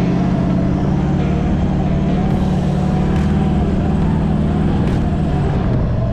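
A 4WD's engine running steadily while driving: a continuous low drone with a higher whine that wavers slightly in pitch.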